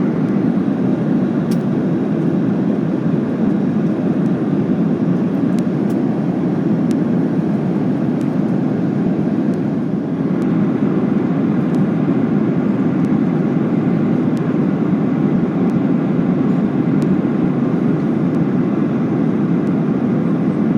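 Steady cabin noise of a Boeing 737-800 in flight, heard from a window seat: a constant low rush of its CFM56-7B engines and the airflow over the fuselage during descent.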